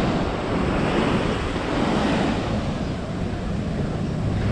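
Sea waves washing onto a sandy beach, with wind buffeting the microphone in an uneven, rumbling rush.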